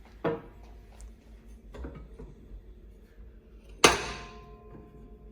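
A couple of soft knocks, then one sharp metallic clank about four seconds in that rings on briefly as it fades.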